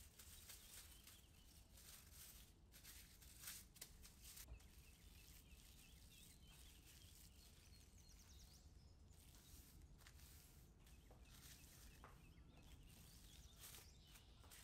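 Near silence, with faint crinkling of plastic wrap as cookie dough is pressed and rolled flat under it with a wooden rolling pin; a few soft rustles cluster a few seconds in.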